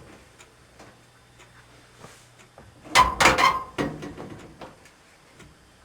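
Faint handling, then a cluster of sharp knocks and sheet-metal clatter about three seconds in as a dryer panel is pushed into its bottom retaining clips, which take some force to seat.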